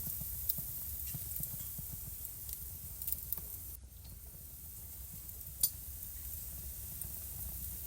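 Wood fire burning in a fireplace: a steady low rumble and hiss of the flames, with scattered sharp crackles and pops, the loudest pop a little past halfway.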